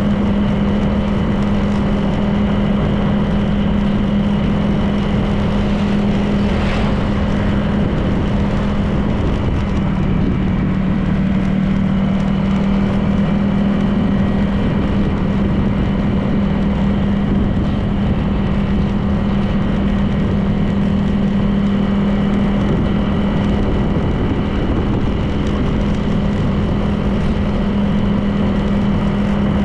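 Honda PCX 160 scooter's single-cylinder engine running at a steady cruise, a constant drone under dense wind and road noise. A brief brighter hiss comes about seven seconds in.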